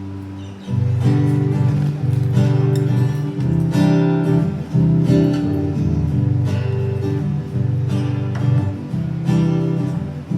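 Acoustic guitar strumming the intro of a country song. It starts softly, then comes in with full strummed chords about a second in, the chords changing roughly once a second.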